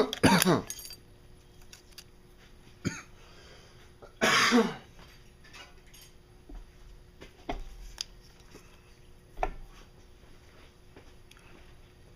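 Scattered light metallic clicks and taps as a screwdriver works at Oetiker hose clamps in an engine bay. Two short wordless voice sounds with falling pitch, one at the start and one about four seconds in, are the loudest things heard.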